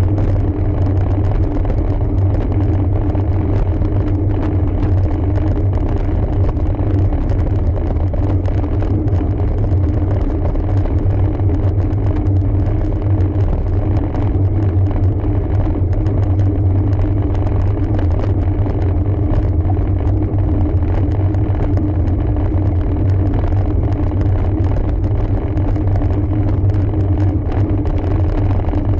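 Steady low rumble of wind and tyre noise on a camera mounted on a moving road bike, unbroken throughout, with a constant hum in the middle of the rumble.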